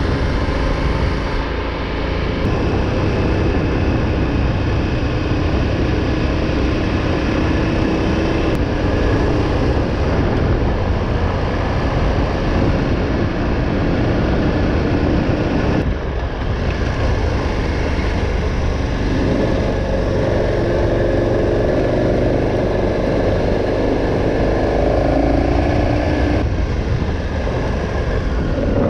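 Adventure motorcycle's engine running steadily while under way. The engine note rises and strengthens for several seconds past the middle, then settles.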